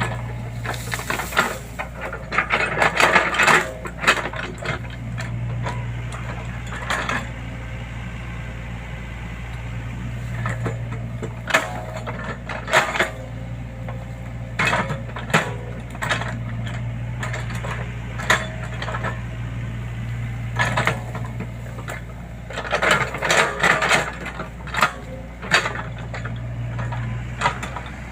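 Excavator's diesel engine running steadily, with repeated bursts of metallic clattering and knocking, the busiest a few seconds in and again near the end.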